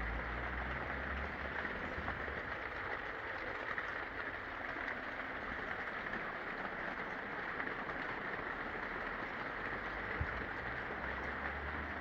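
Steady rain falling, an even hiss, with a low rumble at the start and again near the end and one sharp tap about ten seconds in.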